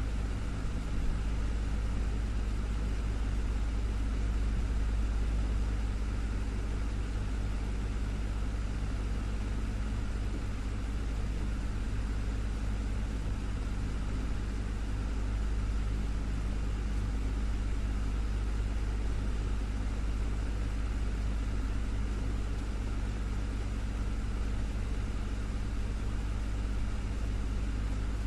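Desktop fan running steadily: a deep, even hum with a few steady motor tones over a soft rush of air.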